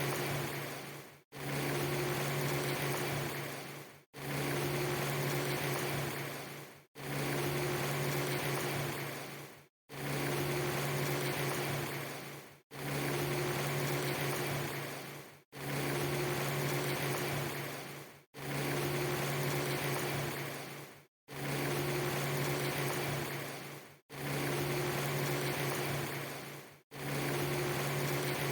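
A short stretch of steady hiss with a low hum, looped about every three seconds: each repeat starts abruptly, fades away, and breaks off into a brief moment of silence before the next.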